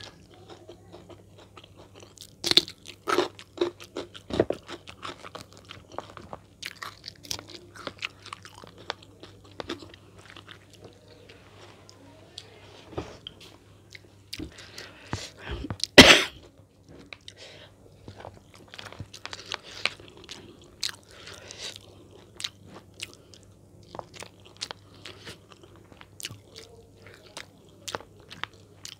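Close-up eating sounds: a person chewing and biting crunchy food in irregular crunches and wet smacks, with one much louder sharp crunch about halfway through.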